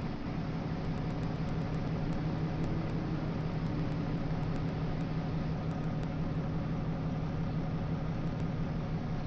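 Engine idling: a steady low hum over an even hiss.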